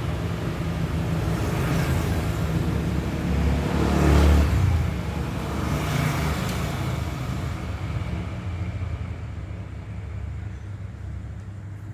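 Road traffic: vehicles passing, loudest about four seconds in with another pass about two seconds later, then the noise dies away toward the end.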